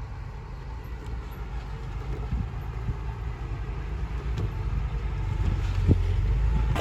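Heavy construction machine's engine running with a low, steady rumble that gradually grows louder.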